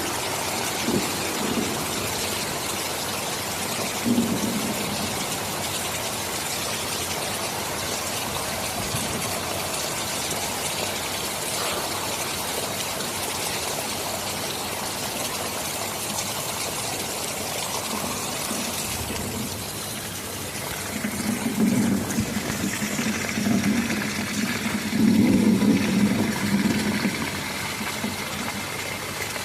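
Steady heavy rain, an even hiss of drops. From about two-thirds of the way through, a low rumble of thunder swells for several seconds, louder than the rain, then dies back.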